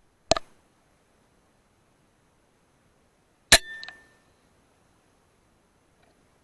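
Two sharp shots from a hunting weapon, about three seconds apart, aimed at flying foxes. The second is louder, with a short metallic ring and a few small rattles right after it.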